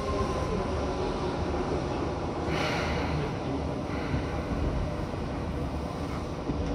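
Interior running noise of a Seibu 2000 series electric train slowing into a station: a steady rumble of wheels and running gear, with a brief hiss about two and a half seconds in.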